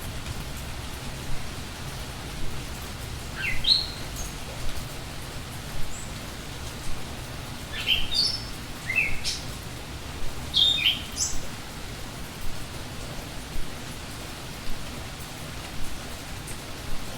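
Forest birds calling in short, quick-gliding whistled chirps, in clusters about four, eight and eleven seconds in, over a steady rushing background noise with a low rumble.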